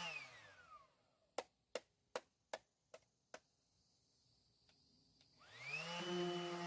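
An electric power sander is switched off and its motor whine winds down, falling in pitch. Six sharp taps follow at an even pace, then the sander is switched back on and winds up to full speed near the end.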